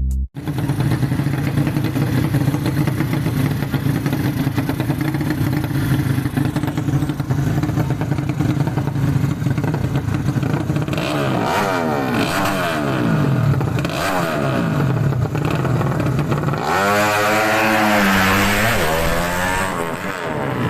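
Racing underbone motorcycle engines running steadily, then revved up and down from about eleven seconds in, with a hard rising rev about seventeen seconds in.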